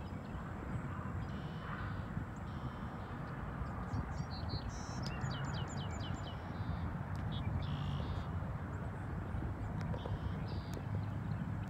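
Small birds chirping outdoors, with a quick run of about six downward-sweeping notes about five seconds in, over a steady low background rumble.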